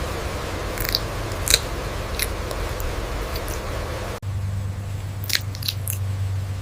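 A few sharp crunching clicks like biting, three spaced out in the first half and a quick cluster of three near the end, over a steady low hum and hiss. The background changes abruptly about four seconds in.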